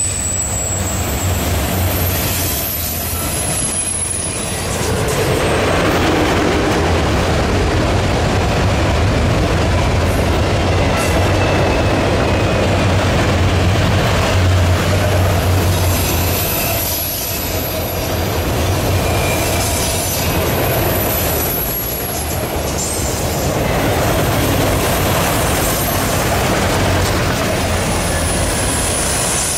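Freight train of autorack cars rolling past at close range: a steady rolling noise of steel wheels on rail, with faint high-pitched wheel squeal at times.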